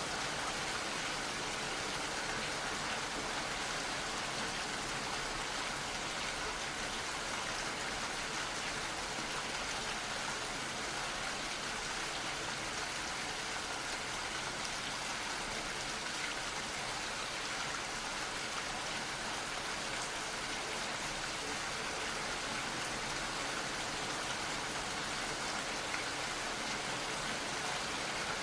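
Gentle rain falling steadily, an even hiss of many small drops that holds level throughout.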